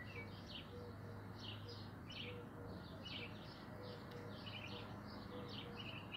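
Small birds chirping: many short, high chirps, a few each second, over a faint steady low hum.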